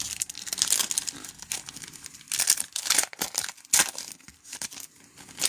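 Trading-card pack wrapper crinkling and tearing as a pack is ripped open, a run of short, sharp crackles and rips.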